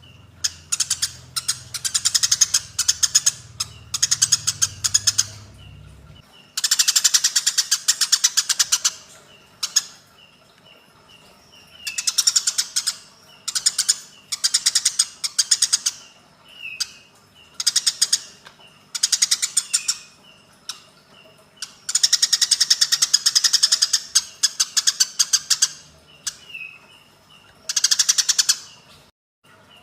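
Eurasian tree sparrows giving fighting calls: repeated bouts of fast, harsh chattering, each lasting a second or a few seconds, with short gaps between bouts that hold faint single chirps.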